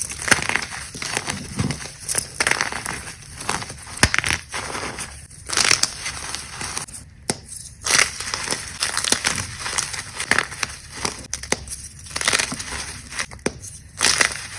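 Soft gym chalk cubes being crushed, crunching and crumbling in a run of irregular crackly bursts with sharp little snaps.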